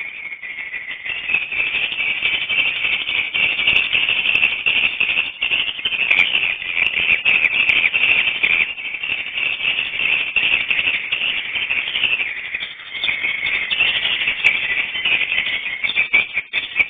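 Swiftlet calls: a continuous, dense high twittering chatter with a few scattered clicks, the noise that fills the void of a swiftlet house.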